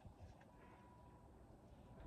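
Near silence: faint background tone with one faint tick.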